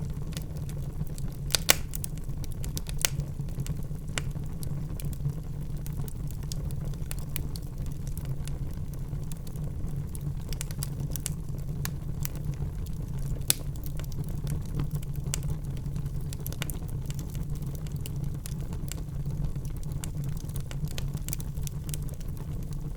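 Wood fire burning in a fireplace: a steady low rumble with frequent small crackles and a few sharper pops, two of them close together about two seconds in.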